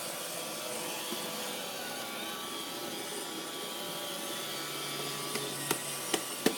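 Vacuum cleaner running steadily, with a few sharp knocks near the end.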